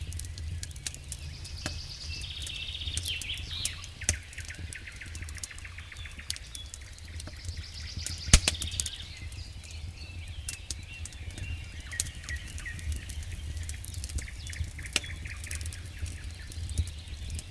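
Wood campfire crackling, with scattered sharp pops, the loudest about eight seconds in, over a steady low rumble; birds chirp in the background.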